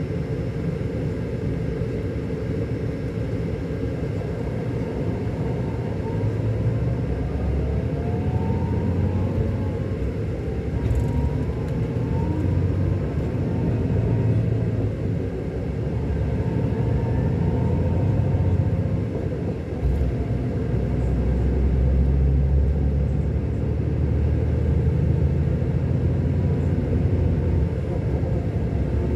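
Scania K400 Euro 5 bus engine, a 13-litre inline six, running under way with a steady low rumble. A faint whine rises and falls in pitch several times in the first half.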